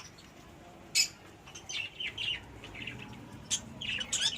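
Small birds calling in a series of short, high chirps, the loudest about a second in, with quicker clusters of chirps around the middle and near the end.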